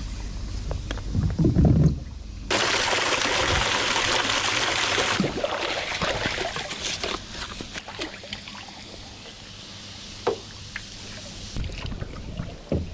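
Water sloshing and splashing, then a steady rush of poured or running water for about two and a half seconds, settling into trickles and drips with small knocks.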